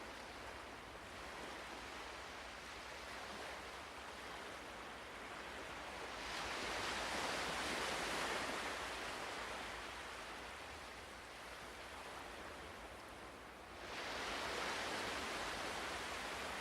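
Ocean surf: a steady wash of waves that swells about six seconds in and rises again near the end.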